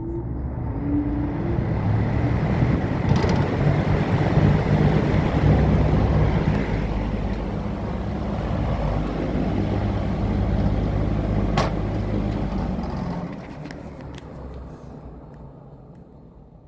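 1970s Superior Electric metal-bladed box fan running: a steady rush of air over a low motor hum. A sharp click comes about two-thirds of the way through, and the sound then slowly dies away as the blades wind down.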